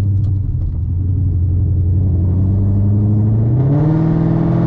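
Ford Mustang V8 engine and exhaust droning steadily while cruising, then rising in pitch about three and a half seconds in as the car accelerates.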